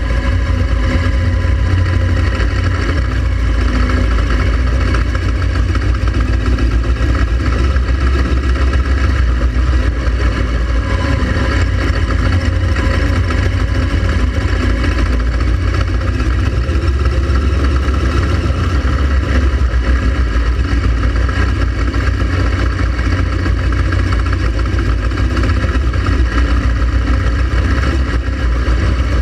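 Honda Transalp XL700V motorcycle's V-twin engine running steadily while riding, with a heavy low rumble and no sharp changes in pace.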